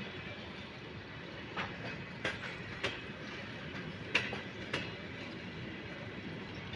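Railway cars rolling at low speed over a steady rumble. The wheels clack over rail joints or points about five times at uneven intervals; the loudest clack comes just after four seconds in.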